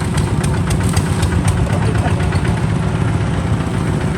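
Kubota RT 140 DI single-cylinder diesel hand tractor engine running steadily with a fast, even low chugging.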